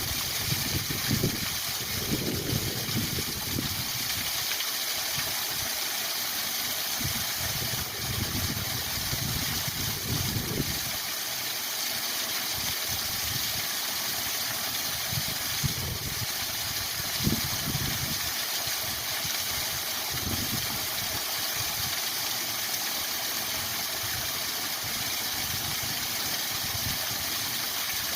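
Waterfall rushing steadily, a constant hiss of falling water, with low rumbles that swell and fade at irregular moments.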